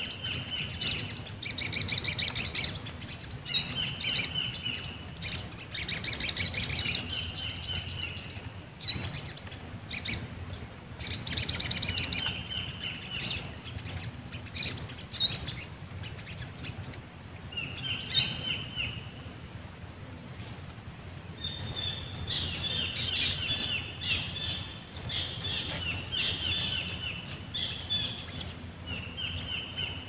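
Small birds chirping in repeated quick series of high notes and short trills, several calls overlapping, coming in clusters with brief pauses.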